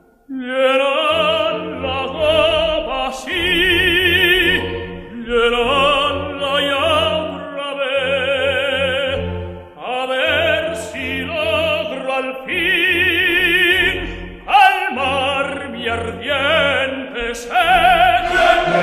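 Operatic solo singing over an orchestra: long held notes with wide vibrato, in phrases broken by short breaths.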